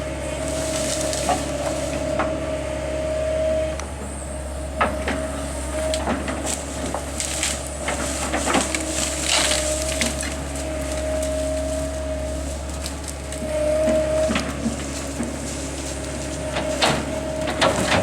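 A tractor's engine runs steadily while it pushes over and crushes brush and small trees, with repeated sharp cracks and snaps of breaking wood.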